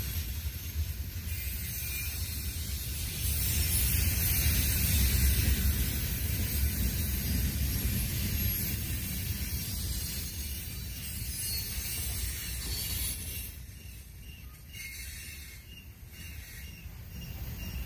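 Freight cars of a passing CSX train rolling along the rails: a steady low rumble with a high hiss from the wheels on the track, easing off for a few seconds near the end before building again.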